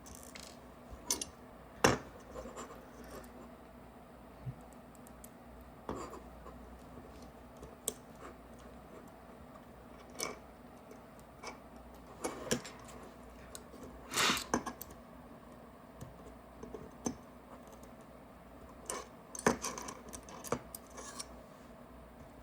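Small parts and tools being handled on a workbench during reassembly of a paintball marker's grip frame: scattered small clicks, taps and short scrapes, the sharpest about two seconds in and a longer scrape around fourteen seconds in.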